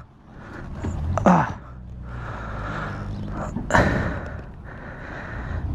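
A man's short pained groan or sigh just after a crash, then a sharp thud about three and a half seconds in, over a low steady hum.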